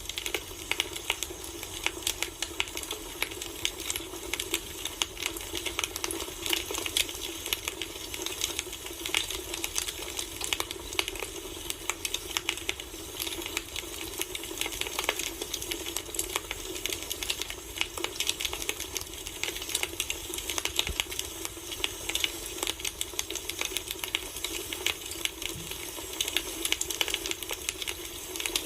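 Wood fire burning, with dense irregular crackles and pops over a steady hiss.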